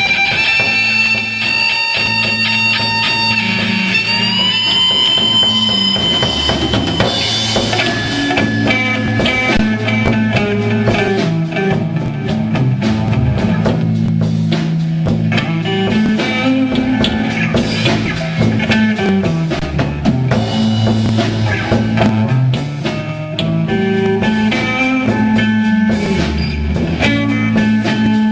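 Live rock band playing, with electric guitar over a drum kit. A held guitar note bends upward about four seconds in.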